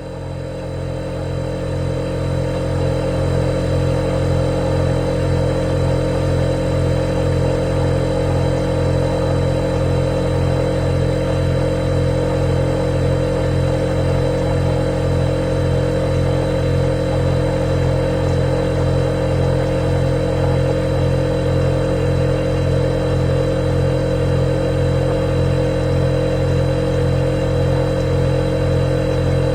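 Refrigerator compressor running with a steady low hum and a fainter high whine, swelling up over the first few seconds and then holding level.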